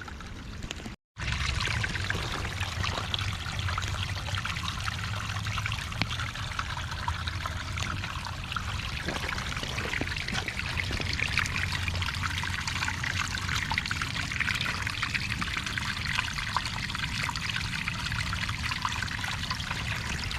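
Small creek running, a steady rushing and trickling of water with a low rumble underneath; the sound cuts out for a moment about a second in, then carries on steadily.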